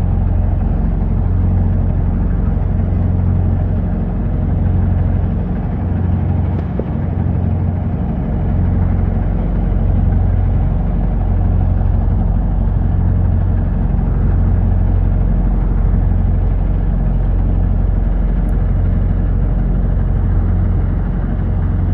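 Large diesel engine idling: a steady, loud low rumble that swells and eases slowly.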